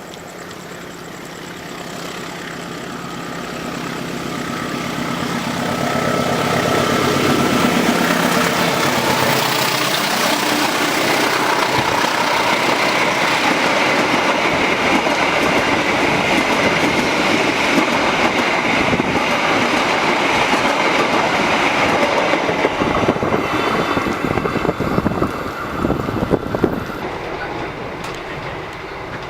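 A train running on rails with wheels clattering over the track. The rumble builds over about eight seconds, holds loud, then eases off near the end.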